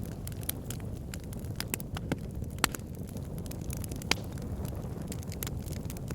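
Wood fire burning in a fireplace: a steady low rumble of flames with irregular sharp crackles and pops from the logs, the loudest pops about two and a half and four seconds in.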